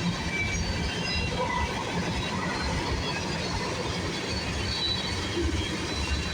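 Freight cars of a passing CN freight train rolling by: a steady rumble of steel wheels on the rail, with brief high wheel squeals scattered through it.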